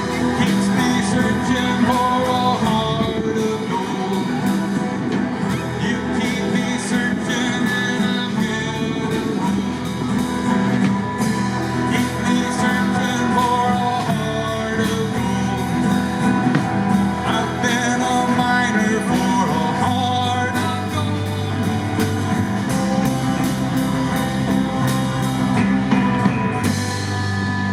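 Live band playing a rock song, with guitar and a steady drum-kit beat, and perhaps a vocal line over it.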